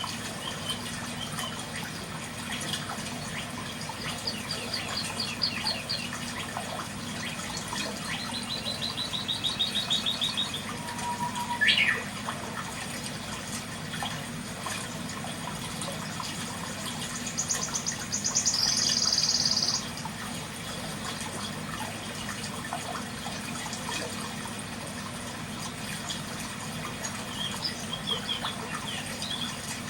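Outdoor birdsong: rapid trills, a quick rising call about twelve seconds in, and a louder buzzy call for a couple of seconds past the middle, over a steady background hush.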